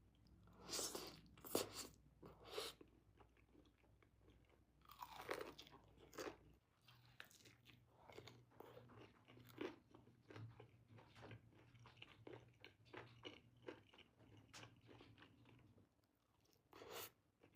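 Faint close-up chewing and crunching of food, with a handful of soft crunches in the first few seconds, one more near the middle, and scattered small mouth clicks between them.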